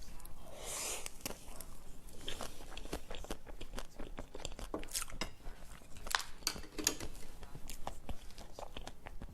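Close-miked eating sounds: a person biting and chewing a dessert, with many short sharp clicks.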